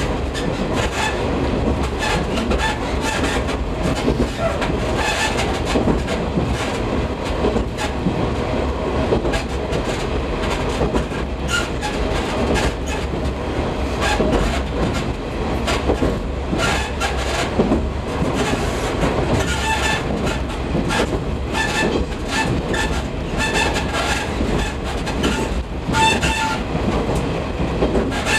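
Diesel railcar running along curving single track, heard from the cab: steady running noise with irregular clicks of the wheels over rail joints and occasional short high-pitched squeals.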